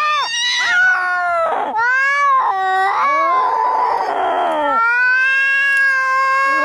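Angry cats caterwauling as in a cat fight: long, drawn-out yowls that slide up and down in pitch, broken by a harsh hiss about halfway through, then a long held howl.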